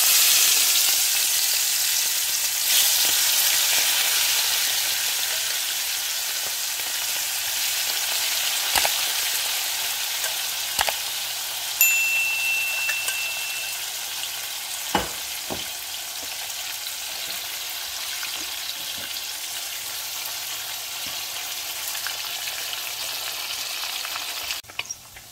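Marinated shrimp sizzling in hot oil in a nonstick frying pan while a metal ladle stirs them, clicking against the pan now and then. The sizzle is loudest as the shrimp go in, eases off gradually, and cuts off suddenly near the end.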